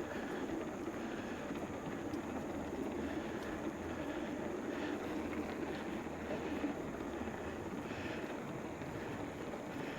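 Steady low rushing noise of an e-bike's tyres rolling slowly over a wet trail surface.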